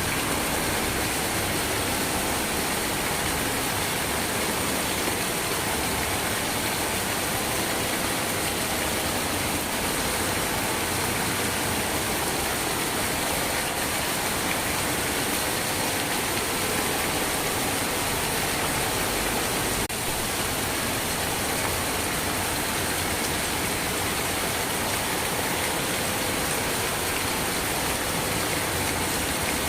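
Steady rain falling, an even, unbroken hiss of rainfall with no distinct drops or gusts standing out.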